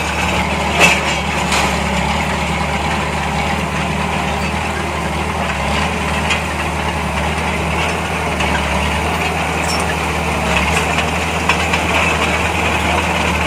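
Heavy diesel engine of earthmoving machinery running steadily at an even pitch, with a couple of sharp knocks in the first two seconds.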